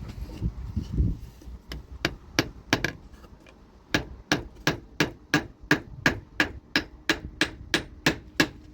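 Hammer blows: a few scattered strikes, then from about four seconds in a steady run of about three blows a second, as when driving nails.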